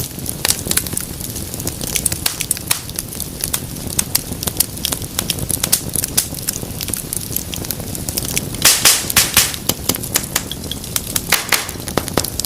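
Wood fire in a fireplace crackling: a steady run of sharp snaps and pops over a low rumble of flame, with a brief cluster of louder pops about three-quarters of the way through.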